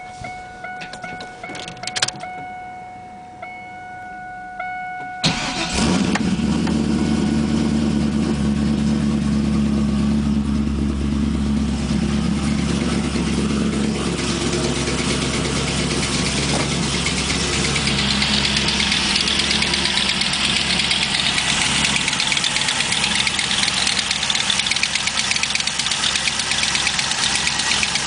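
A repeating electronic chime rings for about five seconds. Then the LS1 V8 cranks briefly, catches and settles into a steady idle with a ticking, which was first taken for a collapsed lifter and turned out to be an exhaust leak.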